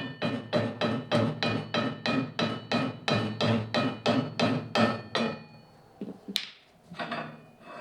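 Hammer blows on the steel rear torsion bar spring plate of a 1956 VW Beetle, driving it off its stop: a fast, even run of about four ringing metal strikes a second for some five seconds. After a short pause come a few more blows.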